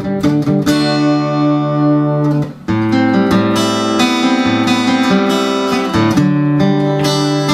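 Seagull Coastline S6 Burst GT acoustic guitar strumming chords, amplified through its QI pickup and a Fender KXR 60 amp. Quick strums give way to chords left to ring, with a brief break and a fresh chord about two and a half seconds in and another change near the six-second mark.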